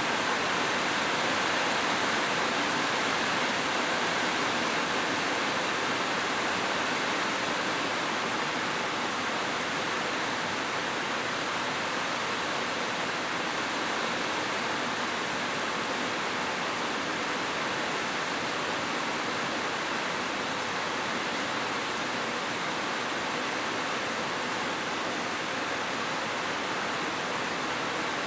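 Heavy rain falling in a steady, even hiss, with no separate drops or gusts standing out.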